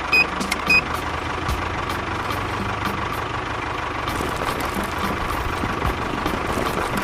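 A small engine idling steadily. Two short high beeps sound close together about a second in.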